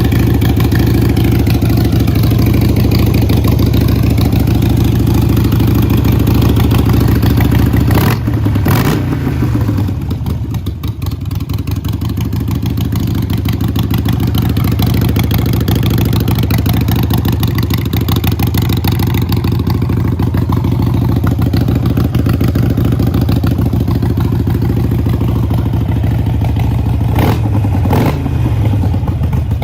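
Harley-Davidson Sportster Iron 883's air-cooled V-twin idling with a steady, loping beat. The throttle is blipped twice, briefly raising the revs, once about eight seconds in and once near the end.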